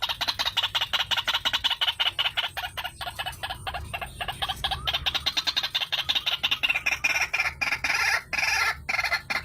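White-breasted waterhen (ruak-ruak) calling: a fast, unbroken run of short repeated notes, played as a lure call for trapping.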